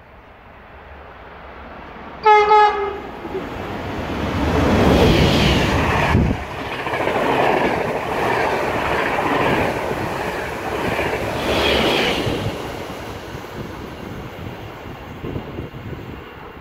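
Dutch electric passenger train sounding one short horn note about two seconds in, then running through the station at speed. The wheel and rail noise swells as it passes close and fades as it goes away.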